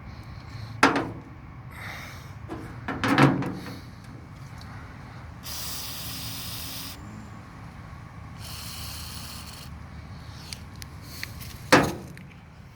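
Aerosol carburetor cleaner spraying in two bursts of a second or so each. Sharp knocks come about a second in, around three seconds in and near the end; these are the loudest sounds.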